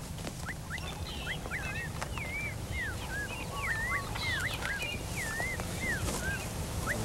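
Birds calling: a busy run of short whistled notes that swoop up and down, over a low steady rumble.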